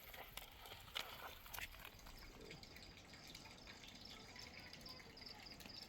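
Faint water dripping and trickling, with a few small clicks in the first two seconds and a faint high repeated chirping in the second half.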